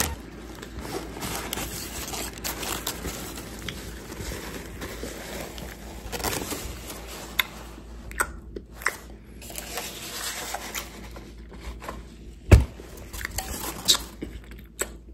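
Close-up chewing of a mouthful of cheeseless hamburger with lettuce and tomato: soft wet mouth sounds and scattered small clicks. A single loud knock about 12.5 seconds in, with a few sharper clicks near the end.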